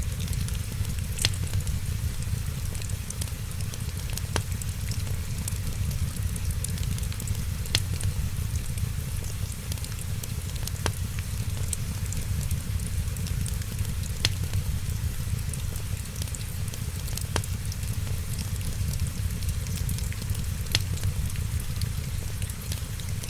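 Wood fire crackling, with sharp pops every few seconds over a steady low rumble and a hiss of rain.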